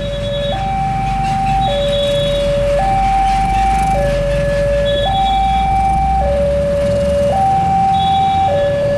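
Electronic two-tone warning alarm alternating steadily between a lower and a higher pitch, each held about a second, over a low rumble.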